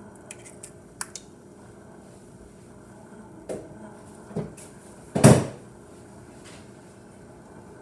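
Light clicks and a few knocks as an egg is cracked against a bowl, with the loudest knock about five seconds in.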